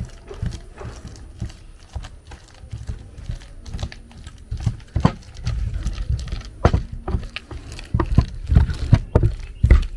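Boiled plantain being mashed by hand: irregular dull knocks, coming faster and louder in the second half.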